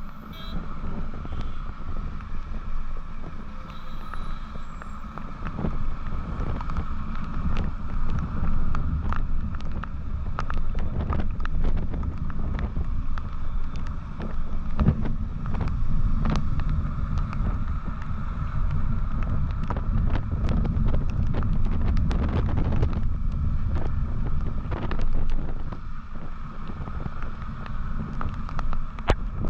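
Motorcycle riding along at speed, its engine and tyre noise under heavy wind buffeting on the microphone, with many short knocks and ticks from the road.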